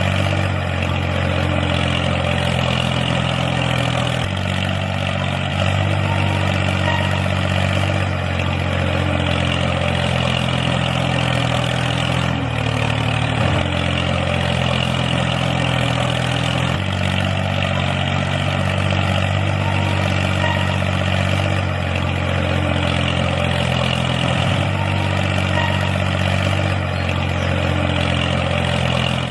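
Tractor engine running steadily, its pitch stepping up and down every few seconds.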